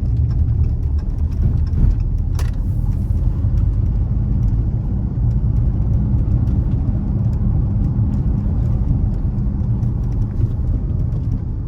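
Dodge Charger V6 engine and tyre noise heard from inside the cabin while driving: a steady low rumble, with one sharp click about two and a half seconds in.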